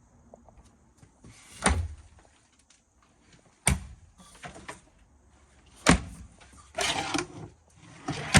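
Four sharp knocks or thumps, about two seconds apart, with a short clattering rustle between the third and fourth.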